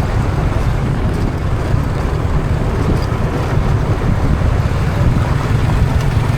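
Motorbike riding at speed, the engine and road noise under steady wind buffeting on the microphone.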